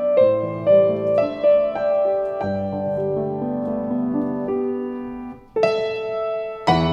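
Solo piano playing a slow, gentle melody over sustained chords. About five seconds in, the sound briefly dies away before a new chord is struck, and another strong chord comes in near the end.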